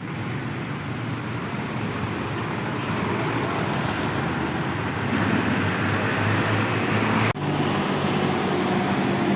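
Old truck's engine running steadily, with a low hum. About seven seconds in, the sound breaks off for an instant and picks up again slightly louder.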